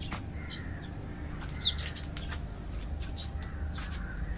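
Birds chirping and calling among garden trees: scattered short, high chirps, with one quick downward-sliding call about one and a half seconds in.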